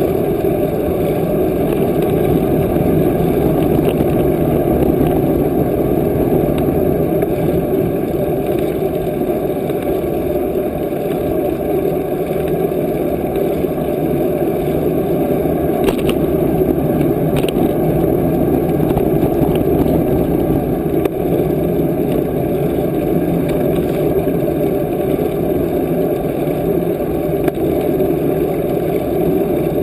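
Steady rumbling wind and road noise from a camera riding along on a moving bicycle, with a couple of faint clicks about halfway through.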